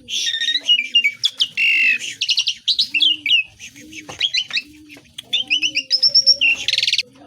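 Asian pied starling (jalak suren) singing a rapid, varied string of whistles, chirps and gliding notes. A harsh rasping burst comes near the end.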